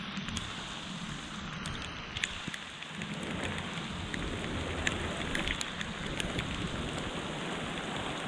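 Steady rain falling, with scattered sharp ticks of individual drops hitting close by and a low rumble underneath.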